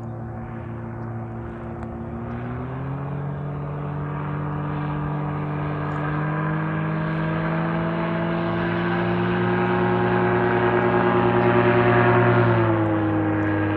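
Low-flying aircraft buzzing overhead: a steady droning hum that grows louder as it approaches. About two and a half seconds in, the pitch steps up; near the end it drops as the aircraft passes over.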